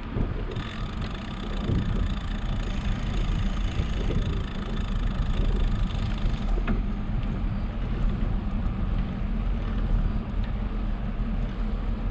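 Wind buffeting the microphone of a moving bicycle as a low, steady rumble, with road noise. A higher hiss joins in about half a second in and drops away about six and a half seconds in.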